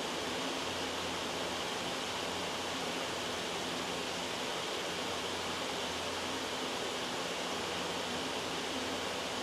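Loud, steady white-noise hiss, with a faint low hum coming and going beneath it.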